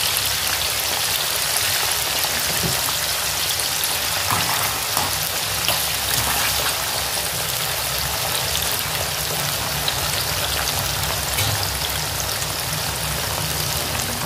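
Potato chips (fries) deep-frying in a pan of hot oil: a steady sizzle, with a few faint clicks.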